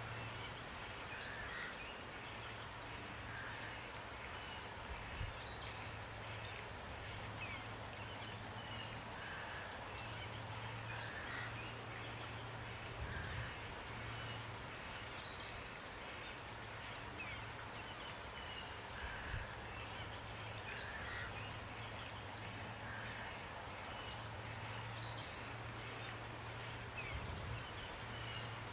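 Steady rain hiss with small songbirds chirping and trilling high-pitched calls throughout. The same burst of calls recurs about every ten seconds, as in a loop.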